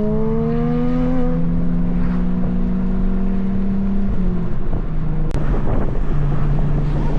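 Car engine revving up in pitch, then holding a steady hum as the car drives on, with wind on the microphone.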